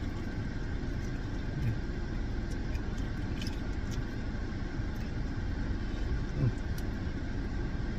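Steady low rumble of a car's interior: engine and cabin noise heard from inside the car, with a few faint small clicks.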